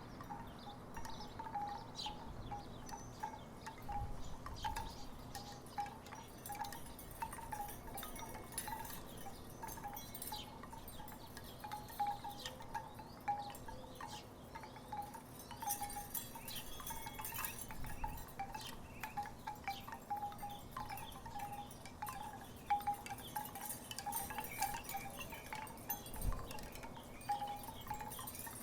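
Wooden tiki wind chimes knocking together in the breeze: a steady, irregular patter of short clacks, all at much the same pitch.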